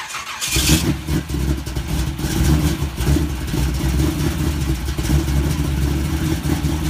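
A car engine catches about half a second in and then runs loudly with a deep, uneven rumble.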